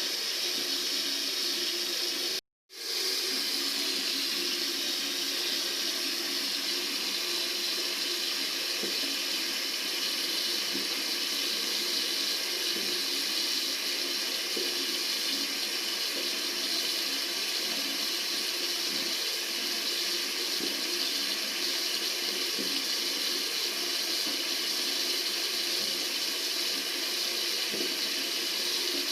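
Water running steadily from a tap into a sink, a continuous even rush. The sound cuts out completely for a split second about two and a half seconds in, then resumes unchanged.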